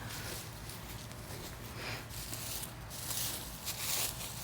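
Soft rustling and scraping of hands digging through loose garden soil and potato plants, with a cluster of louder scuffs near the end.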